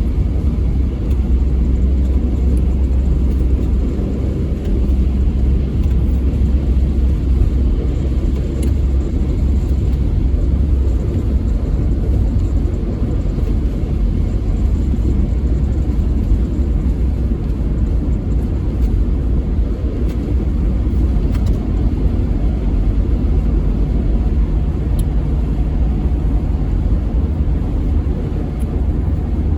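Steady, loud low rumble of a vehicle on the move, with no breaks or changes.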